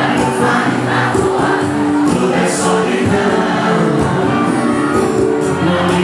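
Live sertanejo music at full volume, with many voices singing the melody together over the band.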